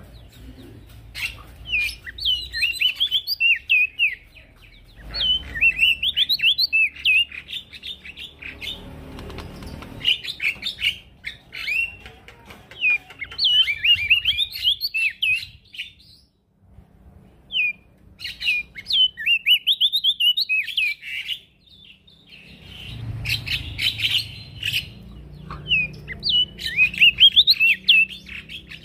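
Male prenjak daun singing in an active state (gacor): rapid twittering phrases of quick, sharply gliding high notes, each a second or two long, repeated again and again with short pauses.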